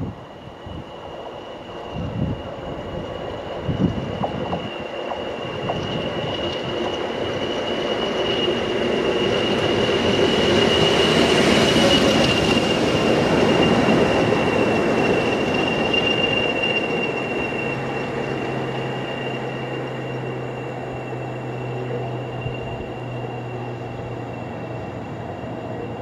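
A train passing out of sight: its noise builds to a peak about twelve seconds in and then slowly fades, with a steady high-pitched whine throughout and a few sharp knocks in the first four seconds.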